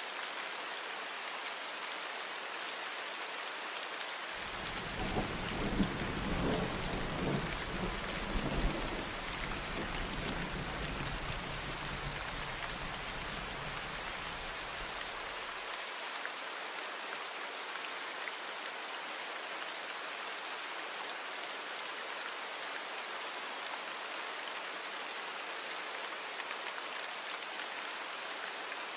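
Steady rain falling. About four seconds in, a low rumble of thunder starts, swelling with a few loud cracks over the next few seconds, then rolls on more quietly and cuts off suddenly about eleven seconds later, leaving only the rain.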